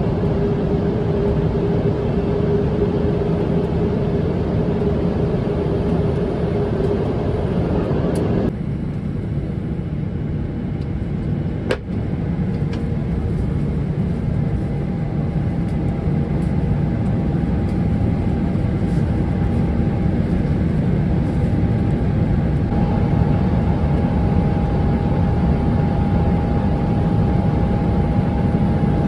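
Steady in-flight cabin noise of a Boeing 777-300ER, a continuous low rumble of engines and airflow. The sound changes abruptly about eight seconds in, dropping a steady hum. There is a brief click a few seconds later, and a fainter steady tone sets in after that.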